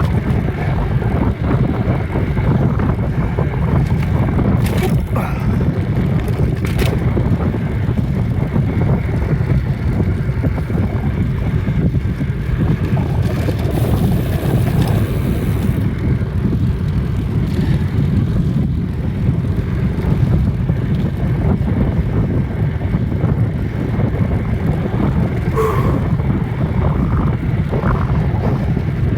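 Wind rushing over a phone's microphone on a moving bicycle: a steady low rumble, with a couple of brief clicks early in the ride and a short hiss about halfway through.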